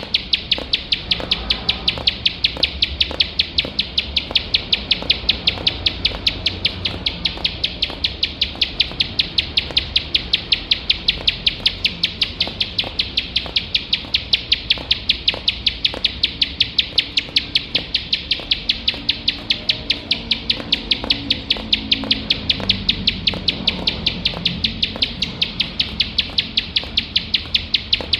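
Plain prinia singing a continuous, rapid run of evenly repeated sharp ticking notes, about three loud notes a second, without a pause.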